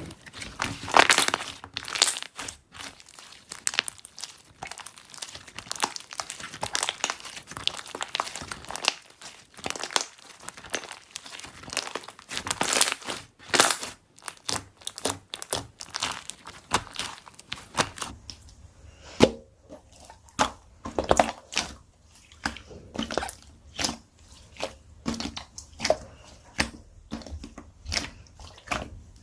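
Slime being squished and pressed by hand, giving a stream of sharp crackling pops and clicks. Past the middle, the pops come more spaced out and each one stands apart.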